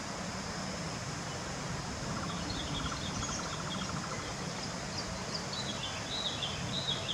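Small birds chirping in short series from about the middle on, over a steady high insect drone, with a brief fast trill a couple of seconds in.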